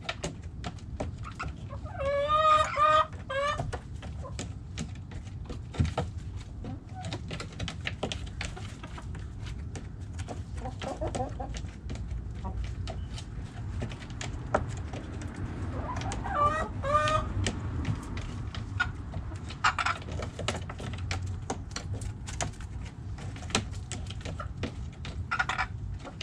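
Backyard chickens clucking, with a loud run of calls about two seconds in and another around sixteen seconds, over a steady low rumble and many small clicks.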